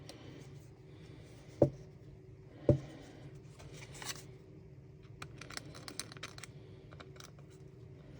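Hard plastic 3D-printed parts being handled on a table: two sharp knocks about a second apart, then a brief rustle and a run of light clicks.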